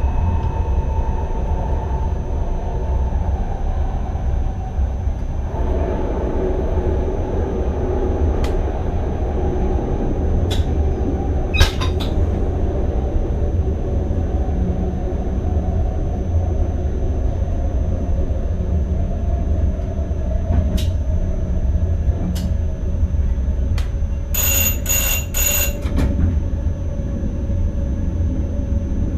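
Cab of an NS ICM electric multiple unit under way: the wheels and running gear give a steady low rumble under a faint motor whine, with a few sharp clicks. Near the end comes a quick run of four high beeps.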